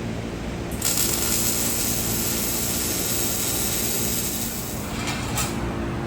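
A shop air tool runs with a steady, loud hiss for about four seconds, then gives two short bursts near the end, while the mid mufflers are cut out of the exhaust. A steady low shop hum runs underneath.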